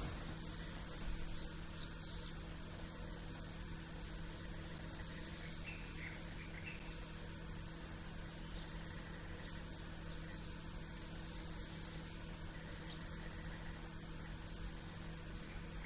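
Small birds chirping now and then: a handful of short, faint calls a few seconds apart. Beneath them runs a steady low hum and background hiss.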